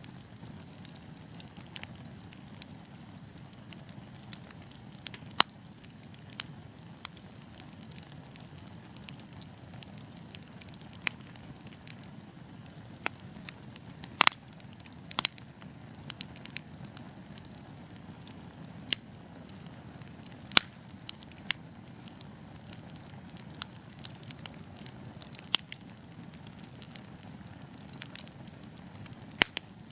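Fireplace fire crackling: a soft steady low rush of flames with irregular sharp pops and snaps, a few of them loud, every second or few.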